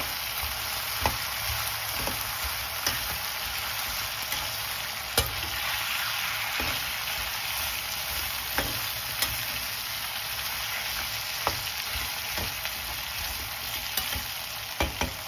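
Sticks of elephant yam sizzling in hot oil in a metal kadai with a steady hiss as they are stir-fried. The spatula knocks and scrapes against the pan every second or two.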